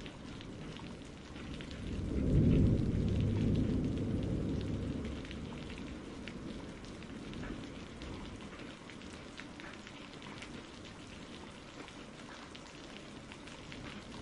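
Steady rain with a patter of drops, and a low rumble of thunder that swells about two seconds in and dies away a few seconds later.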